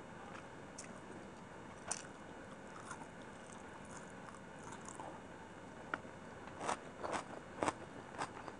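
Close-miked chewing of a hand-fed mouthful of chicken biryani, with scattered soft wet mouth clicks. Near the end comes a run of louder, crunchy chewing sounds.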